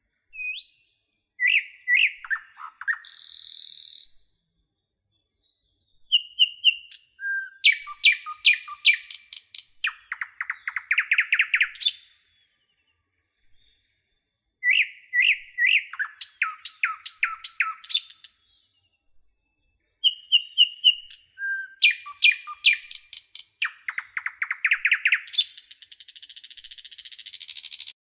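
A songbird singing in phrases of a few seconds, separated by pauses: short clear whistled notes, then fast rattling trills. Some phrases end in a hissing buzz.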